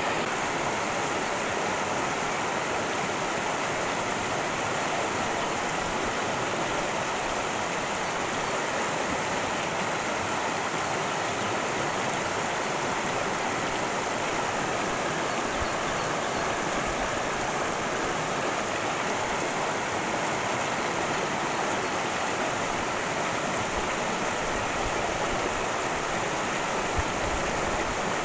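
Cascading stream water rushing steadily over rocks, one brief tick near the end.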